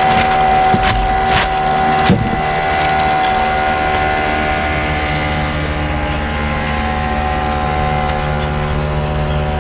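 Small fishing boat's motor running steadily while under way, with a few knocks in the first couple of seconds.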